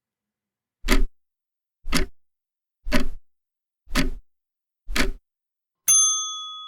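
Countdown timer sound effect: five clock ticks about one a second, then a bright bell ding near the end that rings on and fades. It marks the end of the thinking time before the answer is read.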